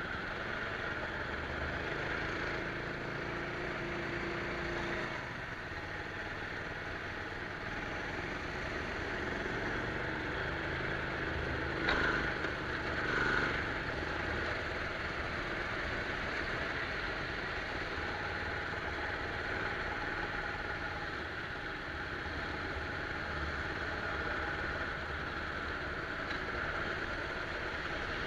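Rental go-kart's small engine running steadily, heard from on board, with two brief louder knocks about twelve and thirteen and a half seconds in.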